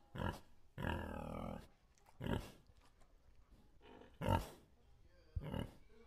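A wild boar grunting, about five short grunts a second or two apart, the longest lasting most of a second about a second in.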